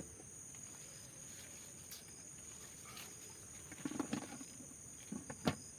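Insects chirring steadily on two high, even tones, with a few sharp clicks, the loudest about five and a half seconds in.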